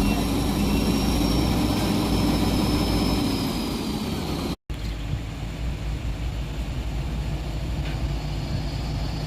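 Heavy diesel truck engine running hard under load, with a high whine that sinks slightly in pitch. The sound cuts out abruptly a little past halfway, then a quieter engine sound carries on.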